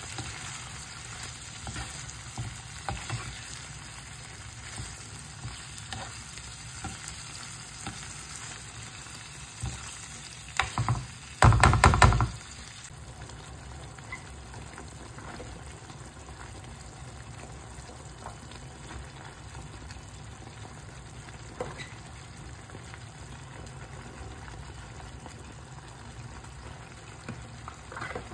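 Meat, onion and tomato frying in a non-stick pan, a steady sizzle with light clicks of a spatula stirring. About twelve seconds in comes a loud, brief burst as liquid goes into the hot pan, and after it the sizzle settles to a softer simmer.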